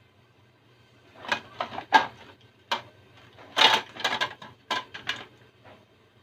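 A quick series of clatters and rustles, about a dozen in some four seconds, from household objects being handled, over a faint steady hum.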